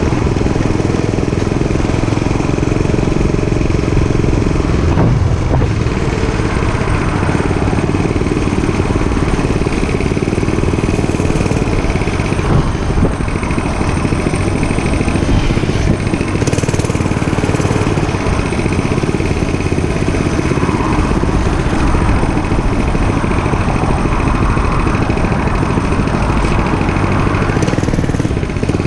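Dirt bike engine running loud and steady.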